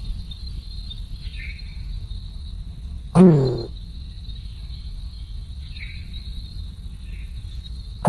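Steady high-pitched insect chirring, like crickets, with a loud low call that falls in pitch, heard once about three seconds in and starting again right at the end.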